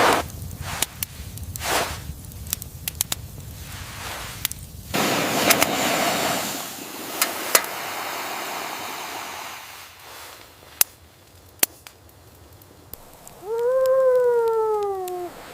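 Sound-designed blizzard ambience: a run of noisy crunching bursts, then a stretch of steady hiss broken by sharp isolated clicks. Near the end comes a single short howl, about two seconds long, that rises a little and then falls away, as of a distant wolf.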